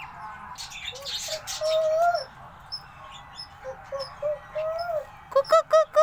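Caged birds calling: scattered short calls rising and falling in pitch, then a loud rapid run of calls near the end that trails into a long falling call.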